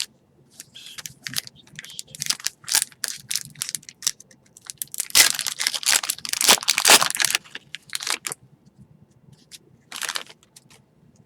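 Foil trading-card pack wrapper being torn open and crinkled in the hands: a run of separate crackling, tearing rustles, busiest and loudest in the middle.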